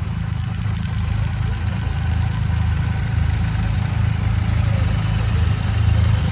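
Motorcycle engine idling steadily with a low hum, growing slightly louder toward the end.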